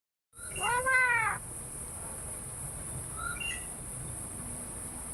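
Pet common myna calling: one drawn-out call that rises and falls in pitch, then a short faint chirp about three seconds in.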